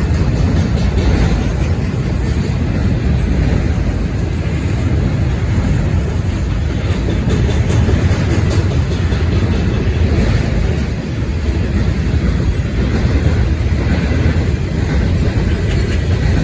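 Freight cars of a passing manifest train rolling by: a steady, loud rumble with no distinct wheel clicks.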